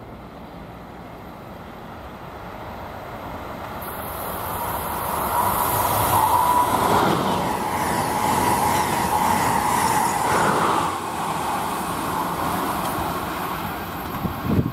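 Electric passenger train passing at speed. The rail noise builds over the first five seconds and stays loud for several seconds, with a steady high whine in the middle of the pass. It eases a little near the end.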